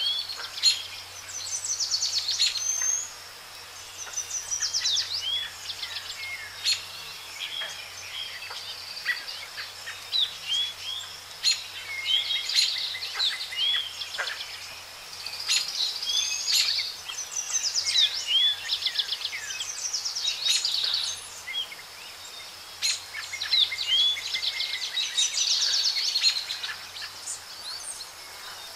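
Songbirds chirping and trilling, many calls overlapping: fast rattling trills mixed with short quick slurred chirps, in busier and quieter stretches.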